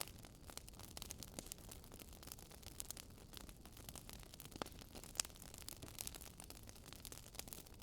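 Wood fire crackling faintly: irregular small pops and snaps over a low steady hiss, with a sharper pop about five seconds in.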